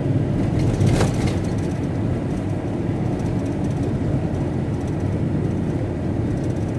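VW T4 Transporter van driving, heard from inside the cabin: steady engine and road rumble, with a brief knock about a second in.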